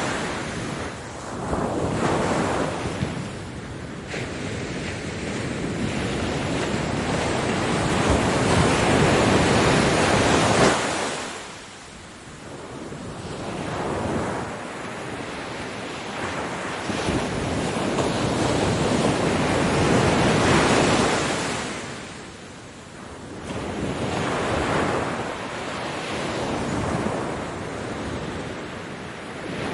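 Ocean waves breaking on a beach, each surge building to a loud crash and washing back out before the next, with wind noise on the microphone.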